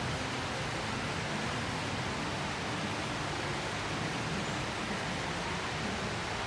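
Steady rain during a rainy-season storm: an even, unbroken hiss of rainfall.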